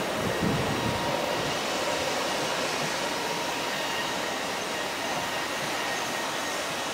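Great Western Railway IET (Intercity Express Train) passing through the station at speed: a steady rush of carriages and wheels on the rails, with a faint steady whine. A deeper rumble comes in the first second or so.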